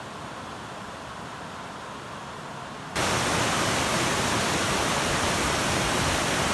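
Waterfall rushing as a steady hiss of falling water; about halfway through it cuts abruptly to a much louder, brighter roar of water that holds steady.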